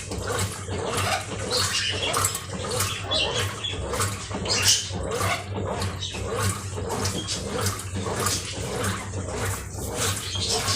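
Brastemp Ative 11 kg (BWL11) washing machine running a wash: water sloshing and churning in irregular surges over a steady low motor hum.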